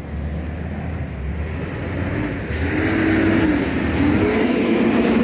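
Diesel engine of a Volvo WX42 garbage truck with a Heil Rapid Rail body, running and pulling away. It grows louder about two seconds in, with a low whine that comes and goes over the rumble.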